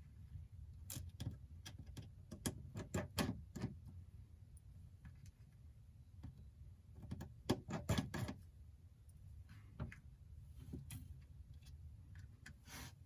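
Irregular light clicks and taps of small repair tools, tweezers and a screwdriver, on a phone's small metal parts and screws, some coming in quick little clusters, over a faint low hum.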